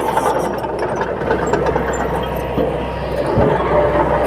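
Heavy diesel engine of earthmoving machinery running steadily, with a brief low thud about three and a half seconds in.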